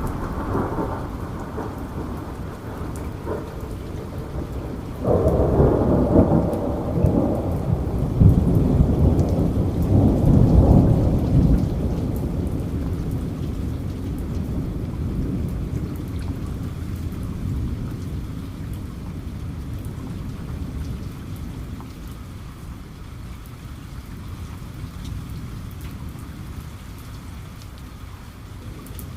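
Steady rain with a long roll of thunder that breaks in sharply about five seconds in, is loudest around ten seconds in, and then rumbles away slowly.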